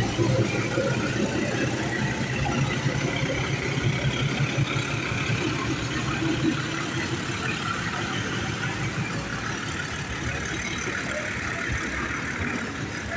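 Railway station platform ambience: a steady engine hum, of the kind an idling locomotive or train on a nearby track makes, under a general background noise that fades a little toward the end.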